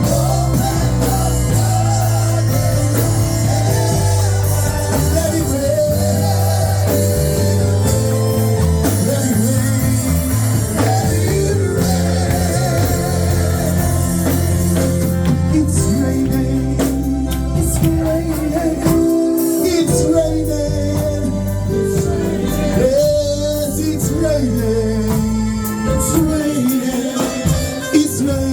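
Live gospel worship music: a band with bass and guitar playing under wavering, sustained singing.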